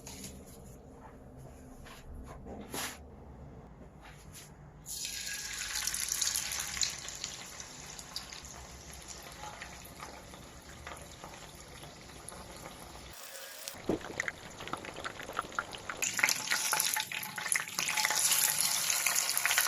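Water running from a tap into a sink, starting about five seconds in and growing louder and more splashy near the end, with a few small knocks before it.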